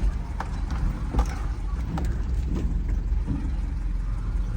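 Mini dump truck being driven: a steady low engine and road rumble with scattered light knocks and rattles.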